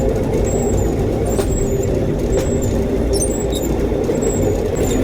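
A rail bike's steel wheels rolling along the railway track: a steady rumble with two sharp clicks about a second apart and brief high-pitched squeaks.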